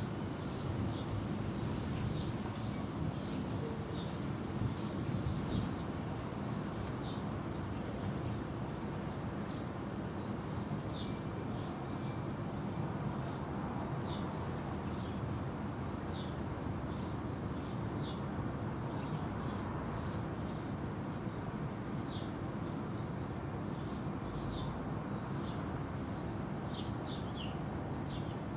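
Small birds chirping: many short, high chirps, scattered and sometimes in quick runs, over a steady low background rumble.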